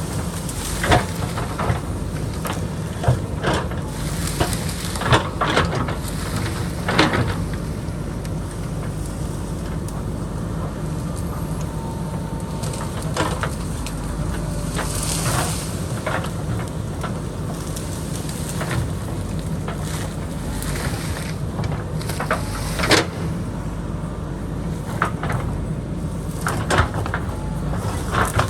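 JCB backhoe loader's diesel engine running steadily under load, with irregular knocks and scrapes of the bucket against rock and dirt.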